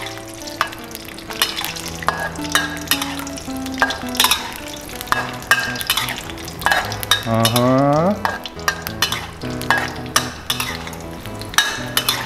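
Cashew nuts sizzling as they fry in hot oil in a wok, still pale and not yet light brown. A metal spatula stirs them, scraping and clicking against the wok over and over. About seven seconds in, a low tone rises in pitch for about a second.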